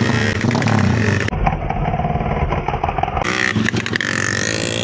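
Dirt-race motorcycle engines running and revving, with one engine's pitch rising near the end.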